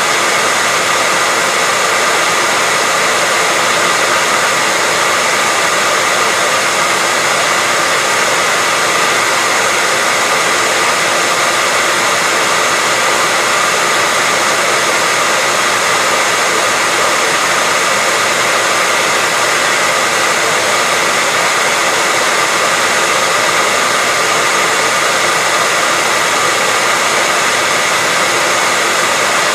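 Hair dryer running continuously: an even, steady blowing hiss with a faint whine from the motor and fan, no change in level.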